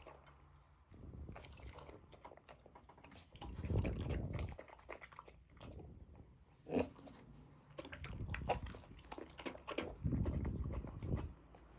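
A dog chewing and biting its food, in irregular bouts of wet chewing with sharp clicks from the bites.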